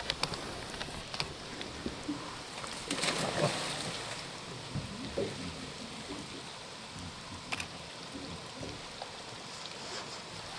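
Running stream water, a steady rush, with scattered light knocks and clicks.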